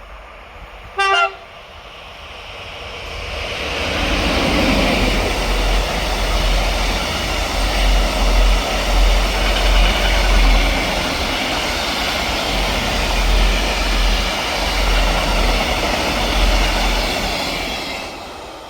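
A train horn gives one short toot. Then a train passes by: the rumble and rushing of wheels on rail build up, stay loud for about fourteen seconds, and die away near the end.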